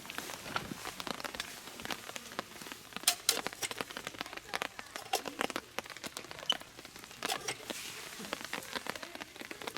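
Rain pattering on a surface: a light hiss with scattered, irregular sharp drop hits, one louder hit about three seconds in.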